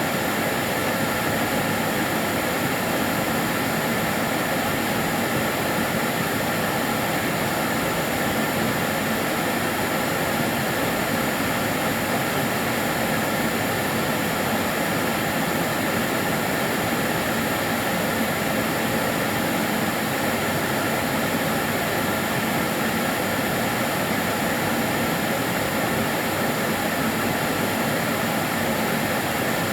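Karcher DS 6 Premium water-filter vacuum cleaner running, a steady even whooshing motor noise with a faint high whine.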